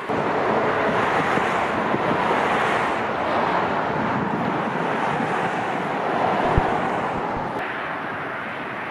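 Jet airliner engine noise, a loud steady rush that starts abruptly and sinks slowly in pitch as the aircraft passes, with wind buffeting the microphone.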